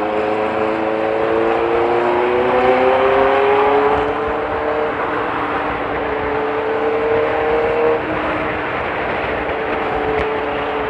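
Motorcycle engine running under load while riding, its pitch rising slowly over the first few seconds, holding, then dropping about eight seconds in, over a steady rush of wind and road noise.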